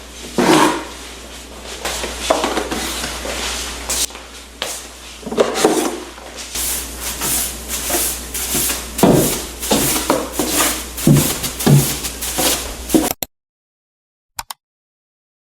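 Household tidying: irregular knocks, clatter and rustling as things are handled and set down, like drawers or cupboards being opened and closed. It stops abruptly about 13 seconds in, leaving near silence with a couple of short clicks.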